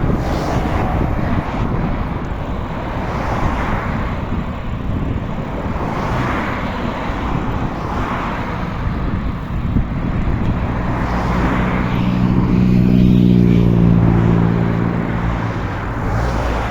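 Wind rushing over the microphone and road noise while cycling. A motor vehicle's engine hum swells in about eleven seconds in, is loudest about two-thirds of the way through, then fades as it passes.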